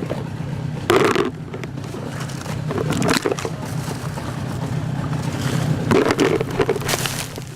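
A small boat's motor running steadily through floodwater, with a few louder noises about a second in, around three seconds and near the end. The sound cuts off suddenly at the end.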